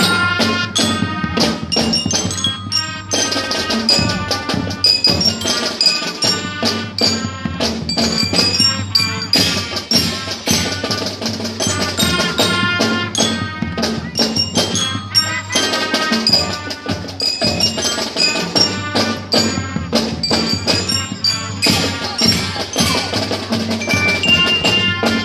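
Marching band playing: held low notes under many pitched melody notes, driven by busy, steady drum and percussion strikes.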